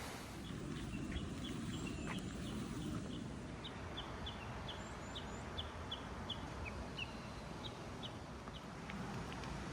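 A bird calling in a long run of short, high chirps, about three a second, over a steady low background rumble.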